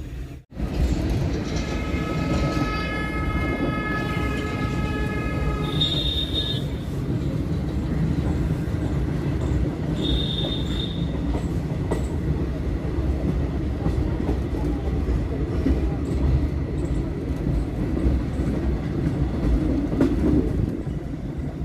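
A train running on the rails with a steady rumble and clatter. A horn sounds for a few seconds near the start, and two short, high-pitched squeals follow a few seconds apart.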